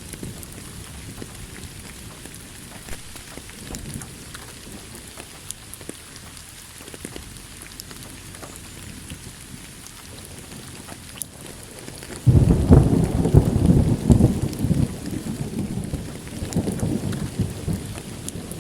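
Steady rain falling with scattered drop ticks, then about two thirds of the way through a sudden loud crack and rumble of thunder that rolls on for several seconds and slowly dies away.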